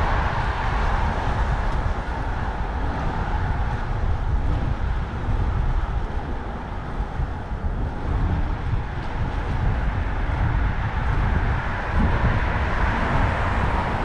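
Street traffic noise with a constant low rumble, heard while riding a bicycle along a city avenue.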